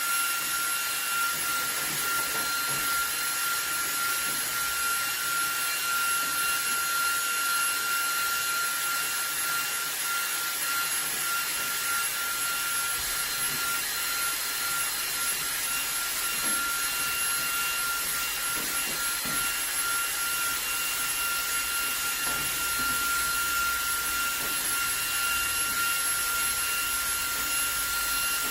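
Cordless vacuum cleaner running steadily, a high whine held at one pitch over the rush of air, as its brush attachment sucks dust off a return air vent grille.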